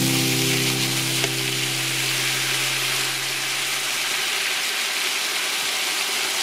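Meat and red onion sizzling as they are stir-fried in a hot wok with a spatula, soy sauce just poured in among them.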